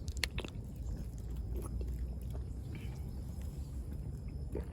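A person chewing food close to the microphone, with a few soft clicks over a steady low rumble.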